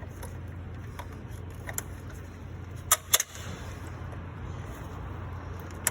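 A few light clicks and two sharp clicks close together about three seconds in, as the shifter cable end and its lock are handled and fitted, over a steady low hum.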